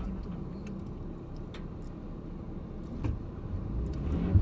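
A car being driven, heard as a steady low engine and road rumble, with a couple of small knocks about three seconds in and near the end.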